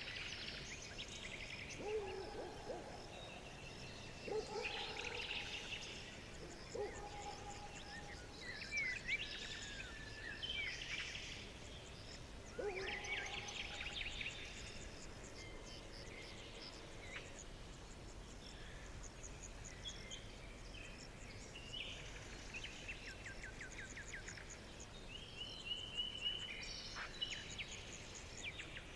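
Several wild songbirds singing and calling over one another: rapid trills, short chirps and whistled phrases. A few lower calls come in now and then.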